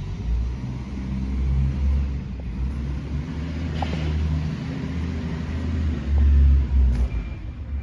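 Truck engine running with a steady low rumble, swelling slightly a few times.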